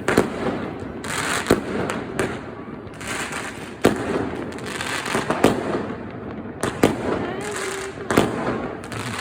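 Fireworks going off: sharp bangs at irregular intervals, roughly one a second, over continuous crackling.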